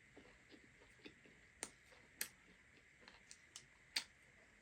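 Quiet eating sounds while chewing a chicken leg: a few sharp mouth clicks and smacks, the loudest three between about a second and a half and four seconds in.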